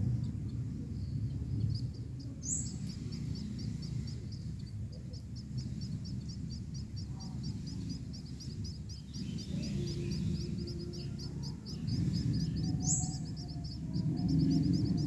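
Small birds giving a fast, even run of thin high chirps, about five a second, over low background music.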